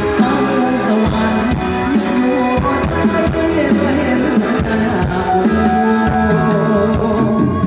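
Live band playing an instrumental passage of a Thai song, with guitar, bass and drums.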